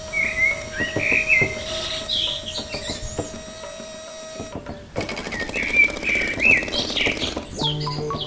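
Small birds chirping and warbling in quick gliding phrases, in two spells with a break in the middle. Under the first spell there are light scattered clicks and a steady hum. Music comes in near the end.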